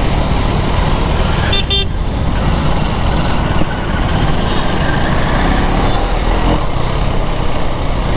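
Ride noise on a motorcycle in traffic: steady wind and engine rumble, with a brief vehicle horn toot about one and a half seconds in.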